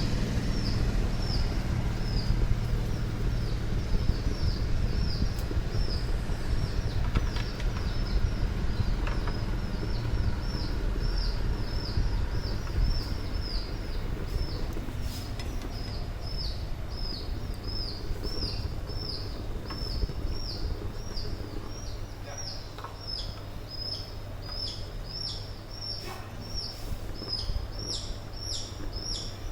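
A small bird calling over and over with short, high, falling chirps, about two a second, growing stronger and lower near the end, over a steady low hum.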